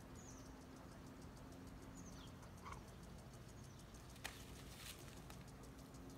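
Near silence, with faint, short high bird chirps falling in pitch every second or so, and a single sharp click about four seconds in.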